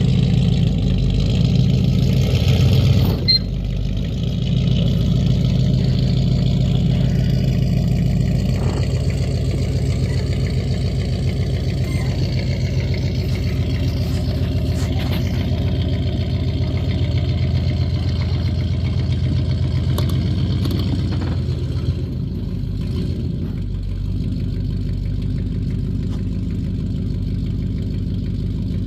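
A vehicle engine running steadily at low revs, with a brief dip in level about three seconds in.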